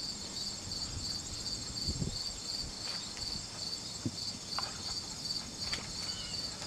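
Insects chirping steadily: an even high-pitched pulse about two or three times a second, with a few faint knocks.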